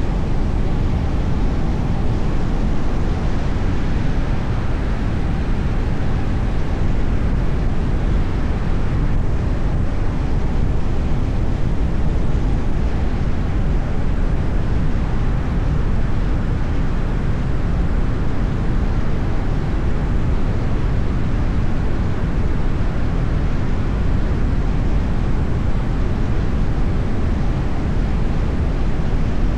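Steady road and wind noise of a moving car, a deep, even rush with no sudden sounds.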